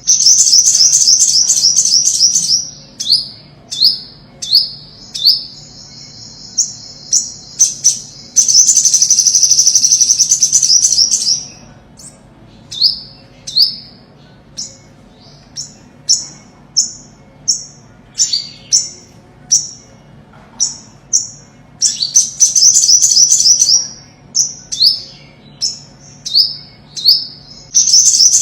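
Olive-backed (ornate) sunbird singing: short, sharp, high chirps repeated about every half second, broken by several fast, rattling trills of two to three seconds each.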